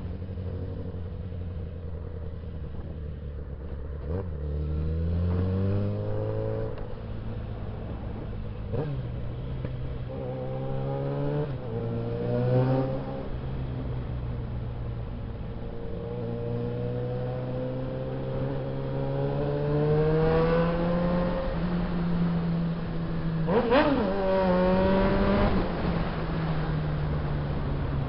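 Suzuki Bandit 650S inline-four engine accelerating: its pitch climbs and drops repeatedly as it pulls through the gears. There is a brief, quick rev near the end.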